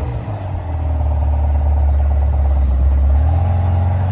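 A car engine running loud, its pitch rising and falling a couple of times as it accelerates and eases off, over a heavy low rumble.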